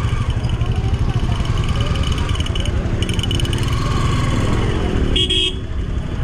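Wind buffeting the microphone with a heavy low rumble, over the chatter of a crowd. A short high-pitched beep sounds about five seconds in.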